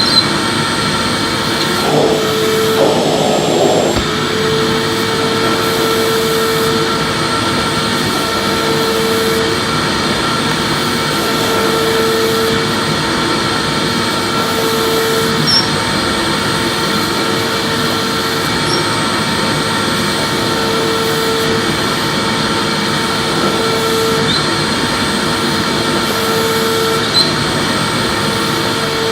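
Vacuum cleaner running steadily with a constant motor whine. A lower hum drops in and out every second or two as the nozzle is pushed back and forth over the floor.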